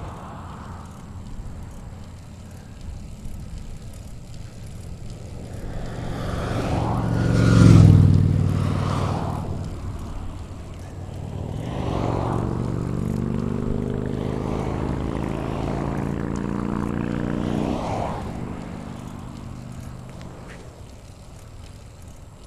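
A motor vehicle passes the bicycle, loudest about eight seconds in with its pitch falling as it goes by. From about twelve seconds a second engine hum with a steady pitch rises and dies away after about eighteen seconds. Steady road and wind noise runs underneath.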